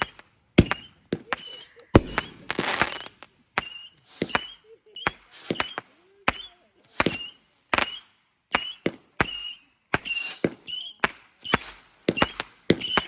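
Consumer fireworks going off in quick succession: a string of sharp bangs, about one to two a second, some followed by crackling and a brief high whistle.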